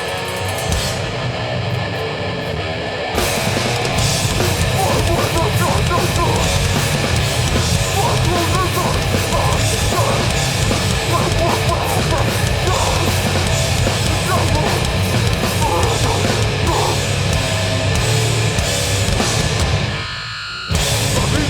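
Hardcore band playing loud live through a festival PA: heavy distorted guitars and drums. The playing swells to full about three seconds in, stops dead for a moment near the end, then crashes back in.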